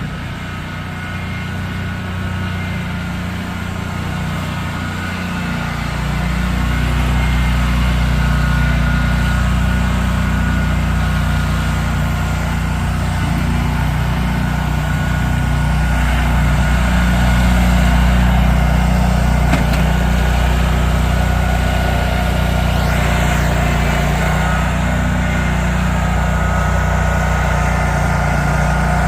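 A truck engine running steadily, with a faint steady whine above it. It grows louder about six seconds in.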